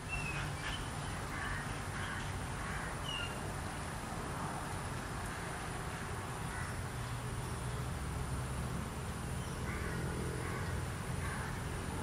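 Outdoor ambience: scattered short bird calls in two clusters, near the start and again near the end, over a steady low rumble and a thin high whine.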